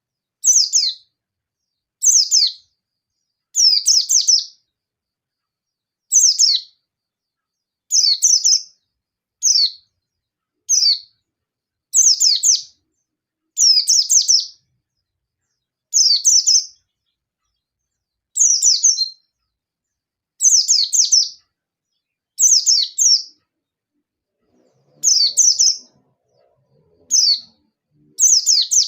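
A yellow-breasted white-eye (pleci) singing in short, fast bursts of high chirps that fall in pitch, each burst about half a second long and repeated every one and a half to two seconds. This is the sharp, agitated 'ngalas nembak' song that calls out to rival white-eyes.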